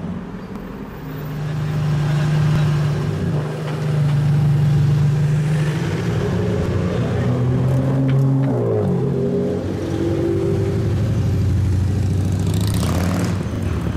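Supercar engine running with a clear pitched note, holding steady, then dropping in pitch about eight to nine seconds in. A short, louder rushing burst comes near the end.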